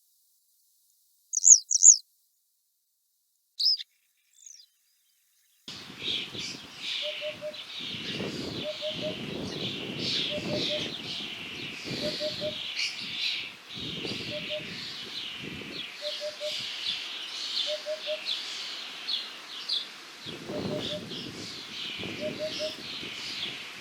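A few short, sharp call notes of a yellow wagtail, then a hoopoe calling its soft, low 'oop-oop-oop', the group of notes repeated roughly every two seconds over a busy chorus of other songbirds.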